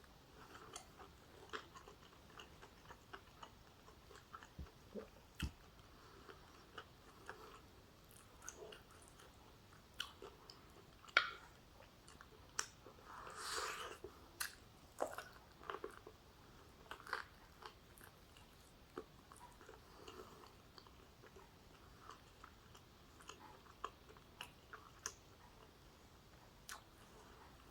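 A person eating close to the microphone: chewing and biting through oxtail stew, rice and vegetables, with scattered small crunches and mouth clicks, and a longer crunchy stretch about halfway.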